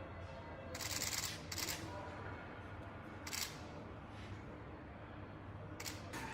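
Several short bursts of hiss, four in all and each lasting under a second, over a steady low hum.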